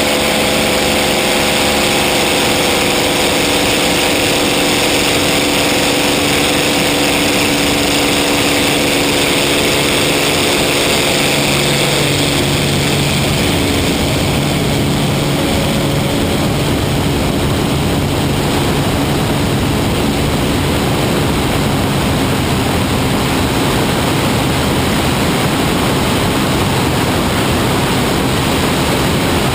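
Propeller aircraft engine running loud and steady, its tone shifting and dropping at about twelve seconds in, after which a steady rushing noise dominates.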